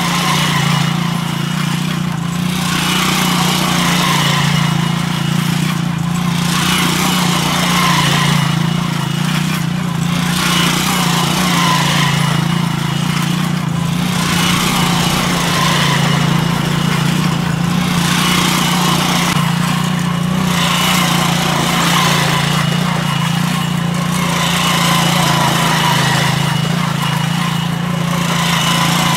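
Motorcycle engine running steadily under load as it drives a stone roller round a millstone crushing hemp seed, with a swell in the sound about every two seconds.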